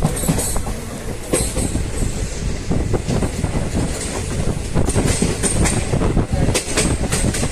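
Passenger train running along the track, with a steady rumble and irregular clattering of wheels over rail joints.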